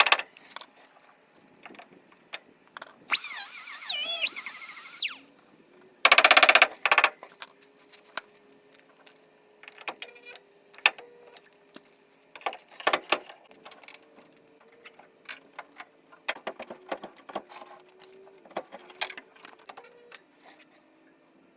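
Hand-tool and power-tool noise of auto-body dent repair on a truck bedside: irregular metallic clicks and taps throughout, a whining power tool that wavers in pitch for about two seconds, then a loud noisy burst about a second long.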